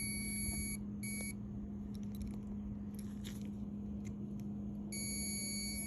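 Multimeter continuity beeper sounding a steady high tone across the dishwasher's high-limit thermostat. It cuts off just under a second in, gives a short beep about a second in, then stays quiet until near the end, when the steady tone returns. The beep means the thermostat has continuity and is good. A steady low hum runs underneath.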